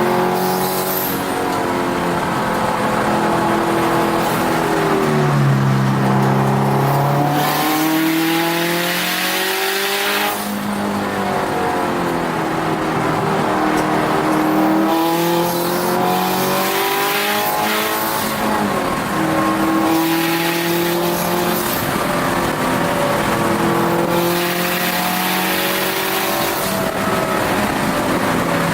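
Turbocharged Subaru WRX STI flat-four engine, heard from inside the car under hard acceleration. The revs climb again and again and drop at each gear change, with a lift-off and downshifts about eight to ten seconds in.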